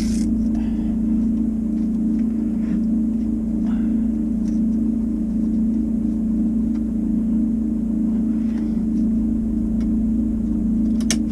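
A steady, loud machine hum at one low pitch, running unchanged over a low rumble, with a sharp click near the end.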